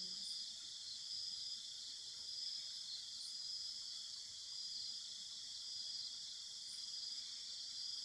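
Steady chorus of insects trilling, high-pitched and unbroken, with a slight pulsing.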